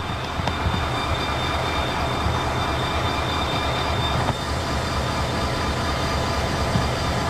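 Freight train with Chicago & North Western high-nose EMD Geep diesel locomotives, a steady low rumble with a few faint clicks.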